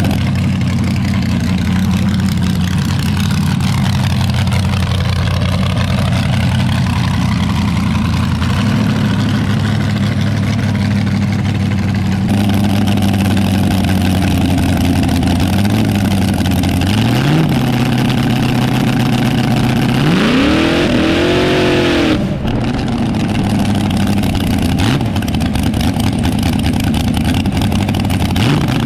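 Front-engine dragster's engine idling steadily, its idle stepping up a little past halfway, then a single throttle blip that rises and falls about two-thirds of the way in.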